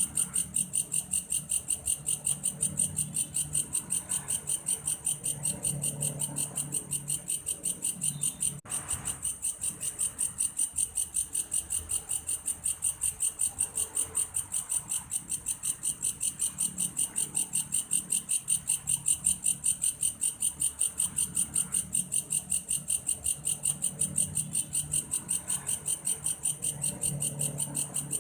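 Belalang kayu, a cricket-like grasshopper, calling in a steady, high, rhythmic pulsing chirp of about four pulses a second, with a brief break about nine seconds in.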